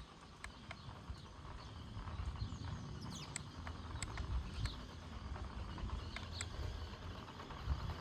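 1:14 scale electric RC car driving over dirt: irregular ticks and crackles of the tyres on loose grit, over a rough low rumble that grows about two seconds in.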